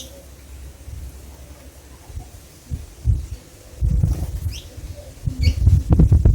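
A few short, high bird chirps about halfway through and again near the end, over loud, irregular low thumps and rumble that build up from about halfway in.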